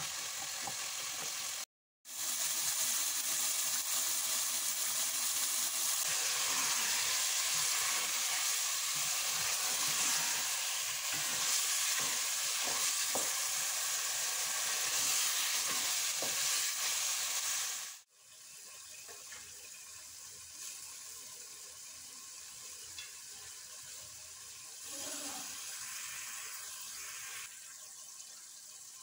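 Mashed turnip masala sizzling as it fries in a metal pot while being stirred, the spoon scraping the pot. The sizzle cuts out briefly near the start, runs loud for about fifteen seconds, then drops suddenly to a much quieter sizzle.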